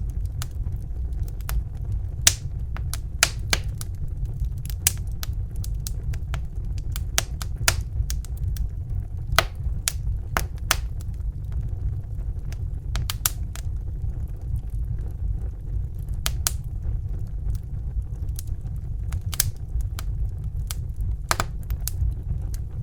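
Crackling fire: irregular sharp pops and crackles, a few each second, over a steady low rumble.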